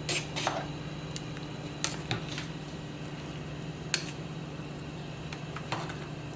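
A utensil knocking and scraping against a soup pot, with about seven short clicks spread through the time, over a steady low hum.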